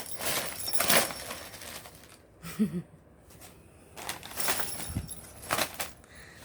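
Packing paper crinkling and rustling in four short bursts as a cat pounces and tumbles in it.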